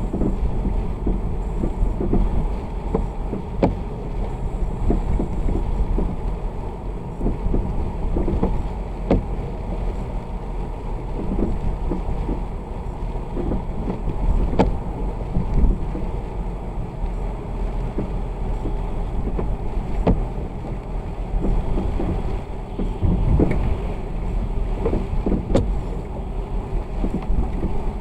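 Vehicle driving in the rain: a steady low engine and road rumble with the wash of tyres on a wet road, and scattered light taps throughout.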